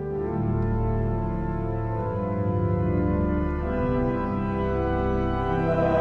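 Church organ playing slow, held chords over a low bass line, the chords changing about every second.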